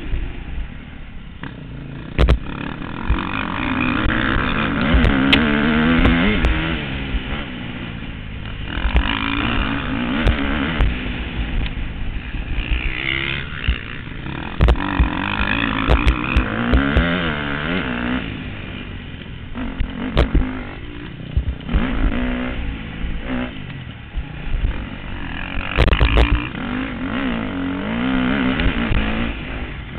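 Motocross bikes' engines revving up and down as riders pass on the track, swelling and fading in several waves, with a few sharp low thumps.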